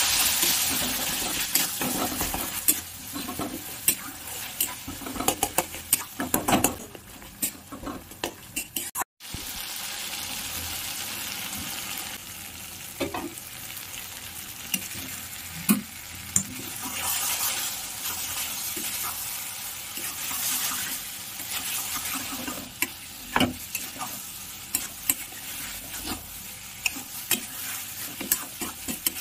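Jackfruit pieces and tomato masala sizzling in a wok while a metal spatula stirs them, scraping and clicking against the pan many times.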